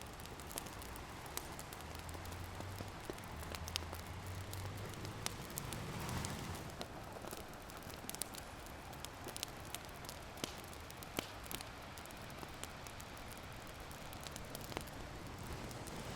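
Open wood fire crackling, with sharp pops scattered irregularly, over a steady wash of ocean waves that swells about six seconds in.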